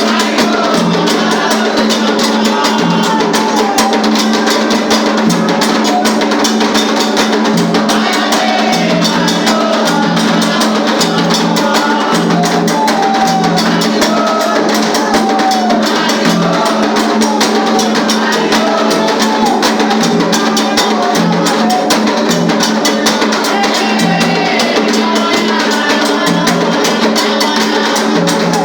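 Afro-Brazilian ritual drumming on hand drums, a loud steady rhythm played without pause, with voices singing a chant over it.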